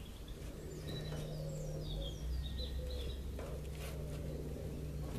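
Several short, falling bird chirps over a steady low background hum.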